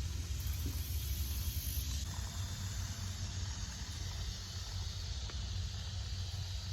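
Outdoor ambience: a steady low rumble with an even hiss above it.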